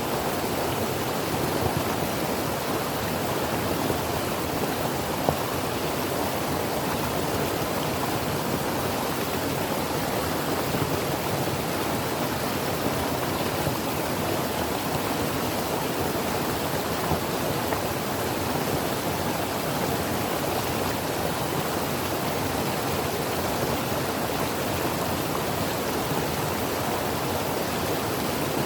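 Creek water flowing over rocks: a steady, even rushing with small splashes here and there.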